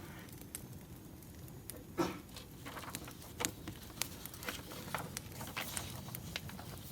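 Burning firewood crackling, with a low steady rumble and irregular sharp pops; the loudest pop comes about two seconds in.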